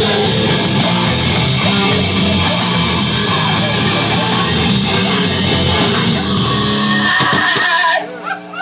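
Live heavy rock band playing loud and dense, with distorted electric guitar, bass and drums; the song stops about eight seconds in.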